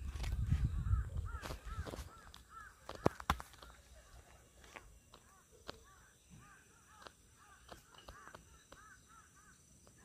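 A bird calling in a fast, steady series of short arched notes. Low rumbling and a few sharp clicks in the first three seconds, the loudest near three seconds in.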